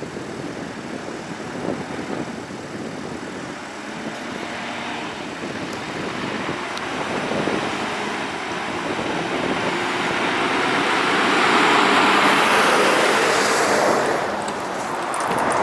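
Army truck driving past: engine and tyre noise grows louder to a peak about twelve seconds in, then eases off.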